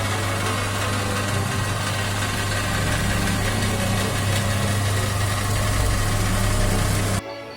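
An electric power tool running steadily under a constant load, with a strong low motor hum beneath a wide hiss. It stops abruptly just before the end, where faint music takes over.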